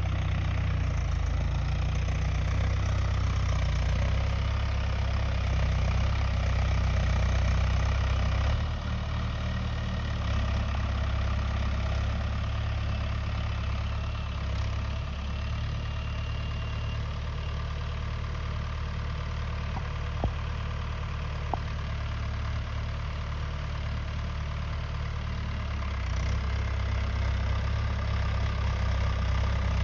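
Mahindra Yuvo Tech+ 575 DI tractor's diesel engine idling steadily. It drops a little in level about nine seconds in and picks up again near the end, with two small clicks in between.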